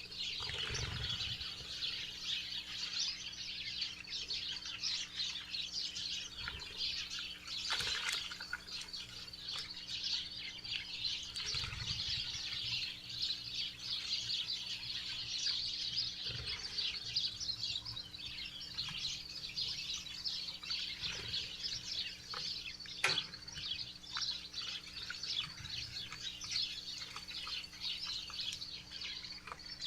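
Many small birds chirping and twittering without pause, a dense chorus of short high notes at a backyard feeder. Twice, a sharp tap or click stands out over it, about eight seconds in and again near the last quarter. A faint steady hum lies underneath.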